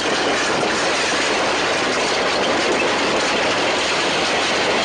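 Earthquake sound effect: a loud, steady noise with no break.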